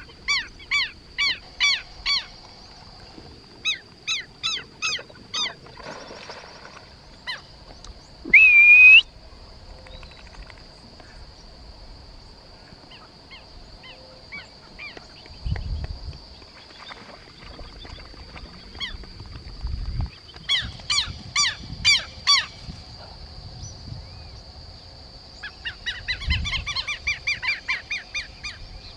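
Birds calling in several runs of short, repeated honking notes, about four a second, with one louder, longer call rising in pitch about eight seconds in. A steady high-pitched hum runs underneath.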